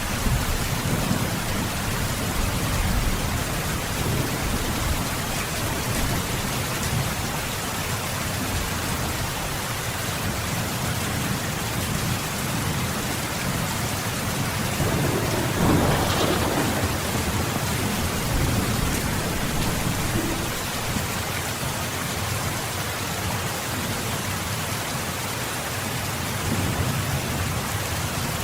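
Heavy rain falling steadily as an even hiss, with a low rumble of thunder swelling about halfway through.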